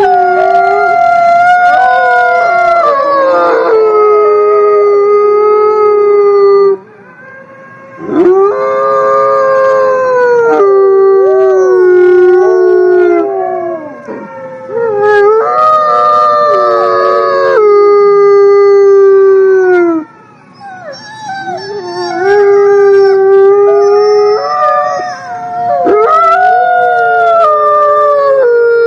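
Several wolves howling together in chorus: long howls at different pitches overlapping, some held steady and some falling away at the end, with short lulls about seven and twenty seconds in.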